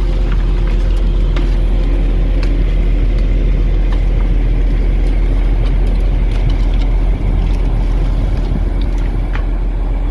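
Volvo grapple truck's diesel engine running steadily at a raised idle of about 1,000 RPM, with the PTO hydraulic pump engaged to work the grapple. A few light clicks sound over the drone.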